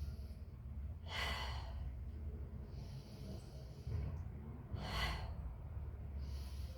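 A woman taking two long, deep breaths, about four seconds apart, over a steady low rumble.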